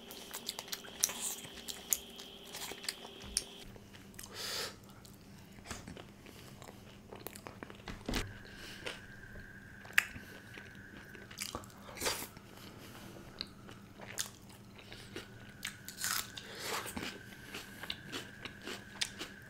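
Close-miked eating of chicken pieces: wet chewing with irregular mouth clicks and smacks, and a few louder bites.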